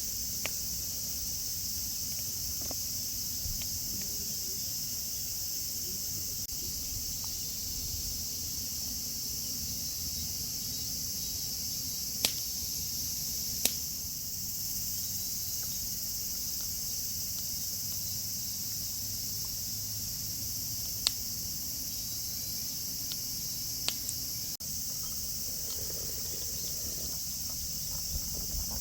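Insects chirping in a steady high-pitched drone, with a few sharp isolated cracks, three of them clearer, scattered through it.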